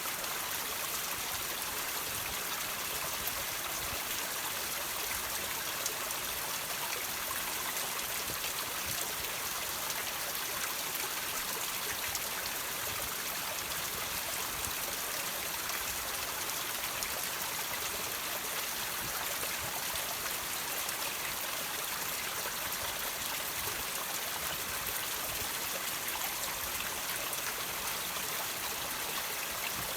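Water trickling and dripping off rocks: a steady running-water hiss with scattered small drip ticks.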